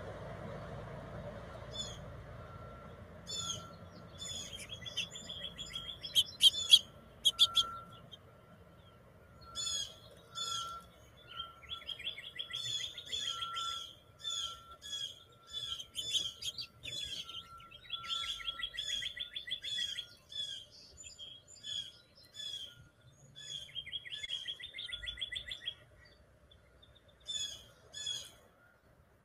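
Small songbirds chirping and calling in quick series of short, high notes, coming and going, with a sharper, louder run of chirps about six seconds in.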